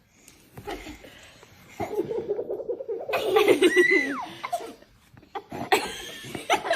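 A person laughing hard in several bouts, loudest from about two to four and a half seconds in, with a high squeal near the middle.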